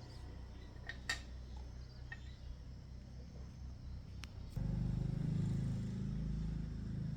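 A machine motor hums steadily at a low pitch, then jumps suddenly louder about halfway through. A few sharp clicks come before the jump.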